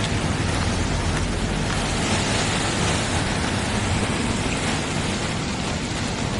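CN container freight train passing, a loud, steady rumble and rushing noise.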